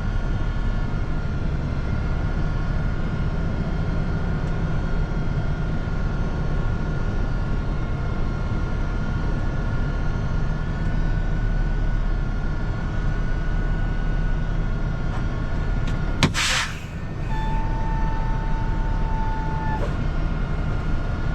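Semi truck's diesel engine idling steadily, heard from the cab, with a faint steady whine over it. About sixteen seconds in comes a short sharp hiss, then a steady beep lasting about two and a half seconds.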